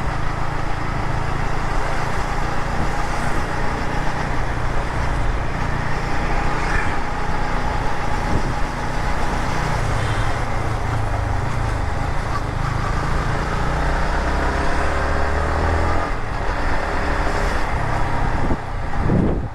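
Motorcycle being ridden on the road: a steady engine note that rises and falls a little with the revs, under loud continuous wind and road noise.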